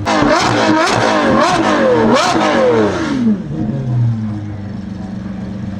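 Lamborghini Revuelto's V12 through a Gintani exhaust, revved in a quick series of blips for about three seconds, with sharp pops between the revs, then dropping back to a steady idle.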